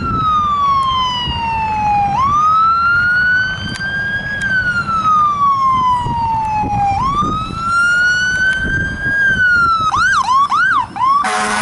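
Fire engine siren wailing, rising and falling slowly about every four to five seconds, then switching to a fast yelp about ten seconds in. An air horn starts blaring near the end, over the low rumble of the truck.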